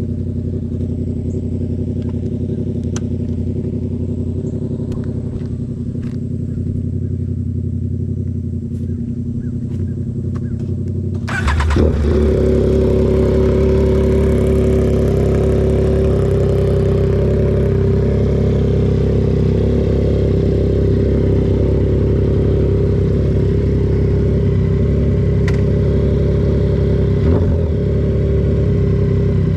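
A motorcycle engine idles steadily through an aftermarket exhaust. About 11 seconds in, a second motorcycle engine starts up with a sudden burst, and the two then idle together, louder and steady.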